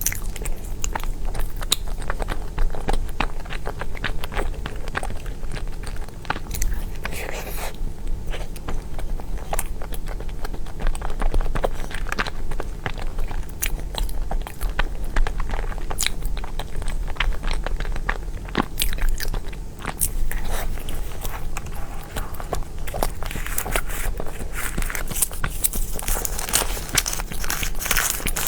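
Close-miked mouth sounds of someone eating cake: repeated bites, soft chewing and wet smacking clicks, over a steady low hum.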